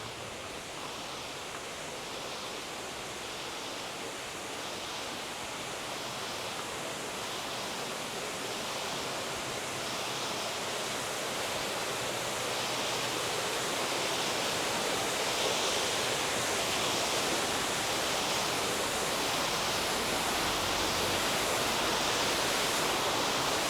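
Steady rush of flowing water, an even hiss that grows gradually louder as it comes closer.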